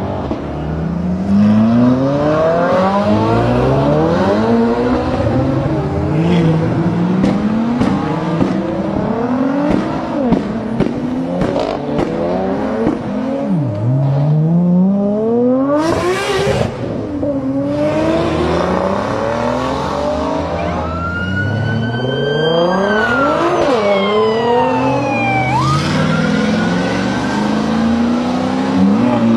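Sports-car engines accelerating hard through the gears: the engine pitch climbs, drops back at each upshift and climbs again, over and over. About halfway through there is a short hissing burst, and later a high whine glides up and down over the engine note.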